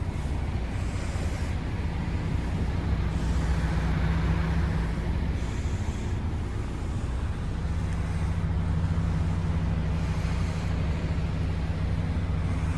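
MAN TGX 18.460 truck's inline-six diesel engine idling steadily, a low even drone.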